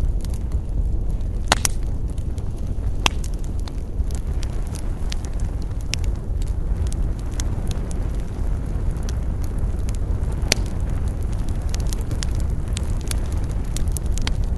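Campfire burning: irregular sharp crackles and pops over a steady low rumble, with the loudest pops about a second and a half, three and ten and a half seconds in.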